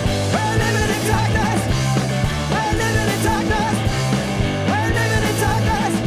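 Rock band playing live, with bass, drums and a high wavering melody line that comes in three phrases of about a second each.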